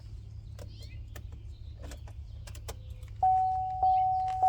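Car warning chime of a 2014 Chevy Cruze beeping, starting about three seconds in and repeating a steady tone roughly every 0.6 seconds, after a few light clicks.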